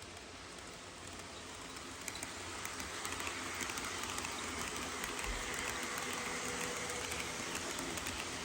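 HO scale model freight train running on the layout, its steady running noise growing louder as it approaches.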